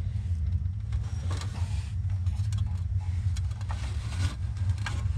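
A steady low mechanical drone, with scattered light clicks and rustles of parts being handled.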